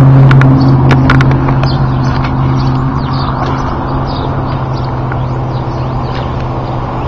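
Car engine running steadily with a low hum and road or wind noise.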